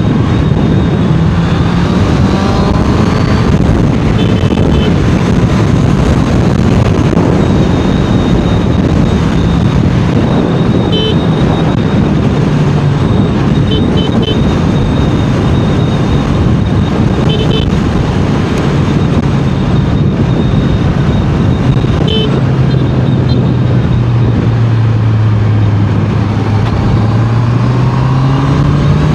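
Honda CBR650R's inline-four engine running at speed under a heavy rush of road and wind noise. Its note sinks lower in the last third and climbs again near the end. Short high beeps sound now and then.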